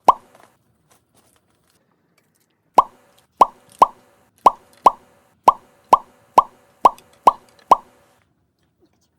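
Cartoon-style 'plop' pop sound effects: a single pop at the start, then a quick, even run of eleven pops about two a second, with dead silence between them.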